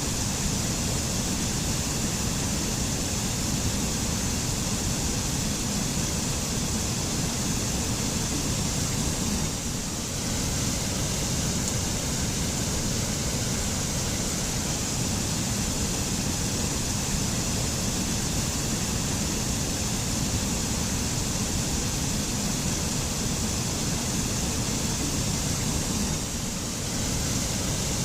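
Mountain forest waterfall: water falling and splashing in a steady, continuous rush, dipping slightly in level twice.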